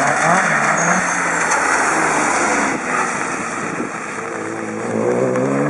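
Rally car at speed on the stage: engine note under a broad rushing noise that is loudest in the first few seconds, then the engine note rises in pitch near the end.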